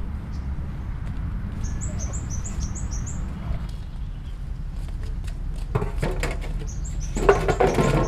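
A small bird gives quick runs of short, high chirps, once about two seconds in and again near the end, over a steady low rumble. Rustling and knocking from handling something come about six seconds in and again, louder, near the end.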